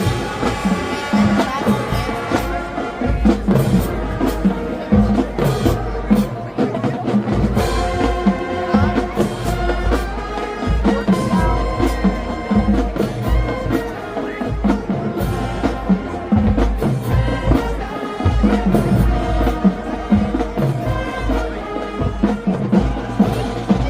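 Marching band playing: brass with drumline and front-ensemble percussion, recorded at a distance.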